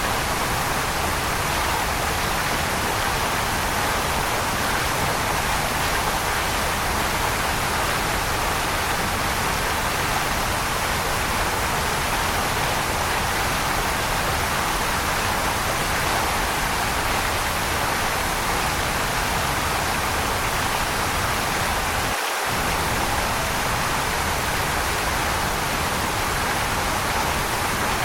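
Waterfall: a steady, even rush of falling water, with a brief dip in the low rumble about 22 seconds in.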